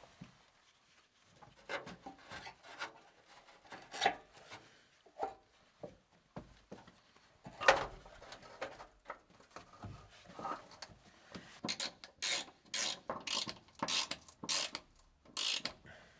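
Scattered knocks and clicks, then a run of short rubbing or scraping strokes about two a second through the second half.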